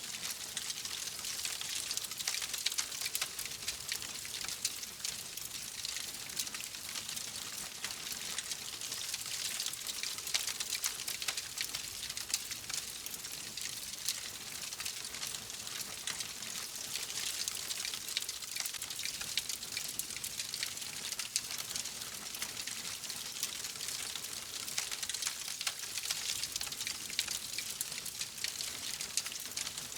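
Wood fire crackling steadily: a continuous hiss of burning with dense small pops and snaps throughout.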